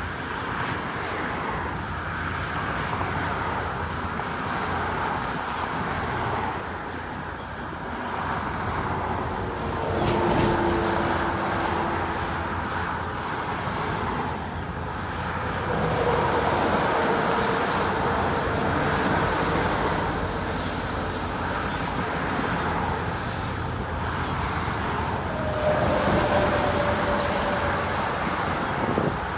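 Steady road noise from a long procession of cars driving past, tyres and engines, with a few short faint steady tones about ten, sixteen and twenty-six seconds in.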